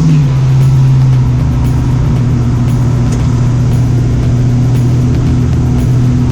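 The 1965 Ford Mustang's late-model 302 Windsor V8 running at a steady engine speed. Its note eases down in pitch within the first second, then holds steady.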